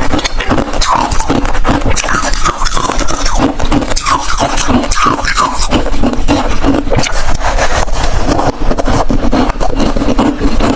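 Ice being chewed close to the microphone: loud, dense crunching, with sharp cracks and crackles coming one after another without a break.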